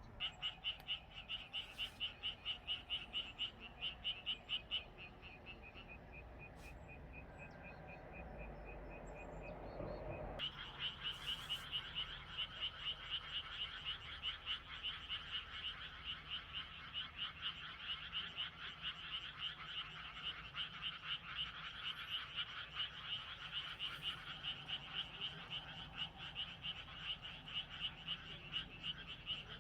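Chorus of many small paddy frogs calling together, rapid overlapping pulsed croaks; the chorus thins for a few seconds, then becomes louder and denser from about ten seconds in.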